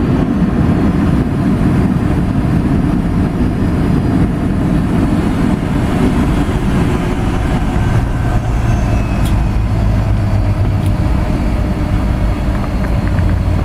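Loud, steady rumble of a Boeing 757-200 rolling out on the runway after landing, heard inside the cabin as engine and wheel noise. A low drone comes in more strongly about eight seconds in.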